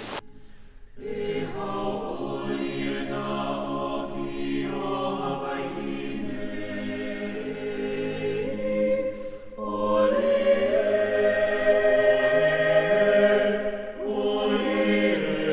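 Background music of choir-like voices singing long, held chords. It comes in about a second in, breaks off briefly about nine and a half seconds in, then swells again.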